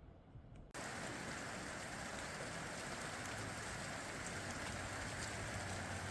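Steady heavy rain during a thunderstorm, cutting in suddenly under a second in after near quiet, with scattered drop ticks.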